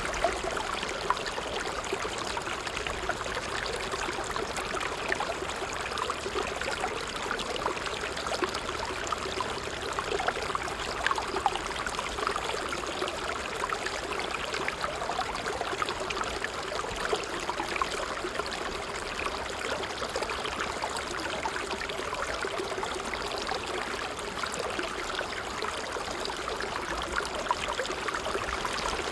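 Water trickling steadily, a continuous stream of small splashes and gurgles with no let-up.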